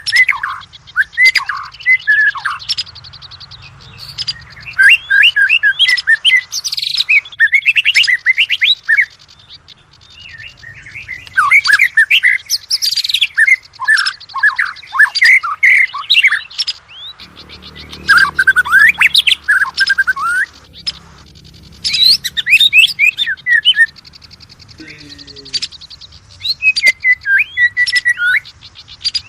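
Oriental magpie-robin (kacer) singing in loud bursts of quick, varied whistled notes and slides, mixed with fast buzzy rattles, with short pauses between phrases.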